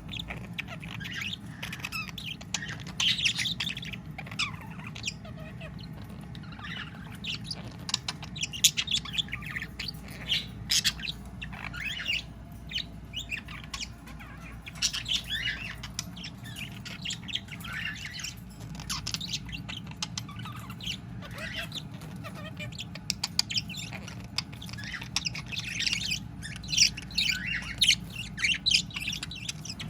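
Budgerigar chattering and warbling, a continuous run of quick chirps, whistles and scratchy squawks.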